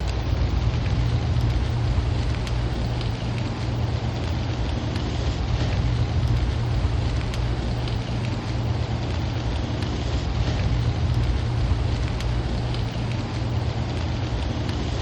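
Steady rain falling, with a constant low rumble underneath and scattered drop ticks.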